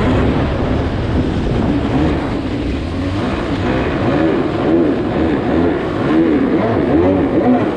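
Two-stroke stand-up jet ski engine running underway, its pitch rising and falling over and over, about every 0.7 s in the second half, as the craft bounces over small waves.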